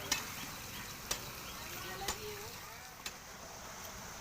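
Four sharp clicks, evenly spaced about a second apart, over a steady background hiss, with faint distant voices.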